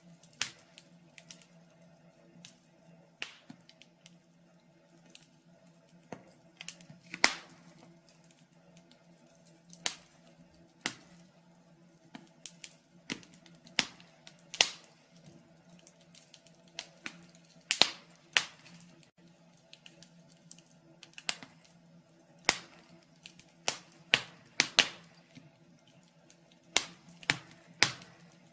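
Wood fire crackling in a fireplace: irregular sharp pops and snaps, several every few seconds, over a faint steady low hum.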